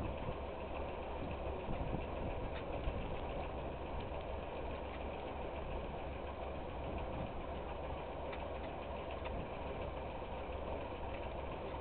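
Tractor engine idling steadily, with a few faint ticks over it.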